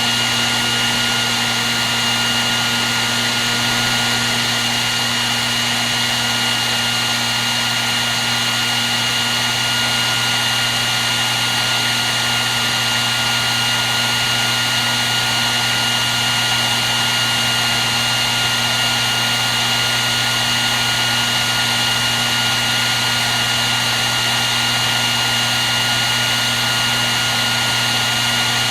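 Hair dryer running continuously: a steady rush of blown air with a constant motor whine, unchanging throughout.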